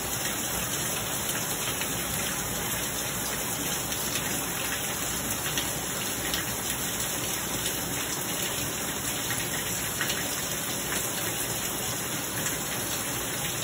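Steady downpour of rain, spattering on the lawn, the puddled concrete and the lids of plastic trash cans.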